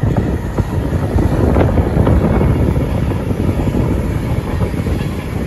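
Passenger train passing, a loud steady rumble with a few sharp clicks, with wind buffeting the microphone.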